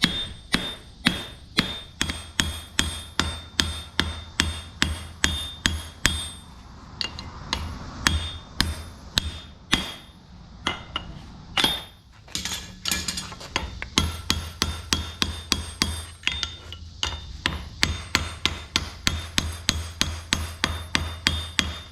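Forging hammer striking a hot railroad spike on an anvil, with the anvil ringing after each blow. The blows come steadily at about two to three a second, stop for a few seconds around the middle, then resume a little faster.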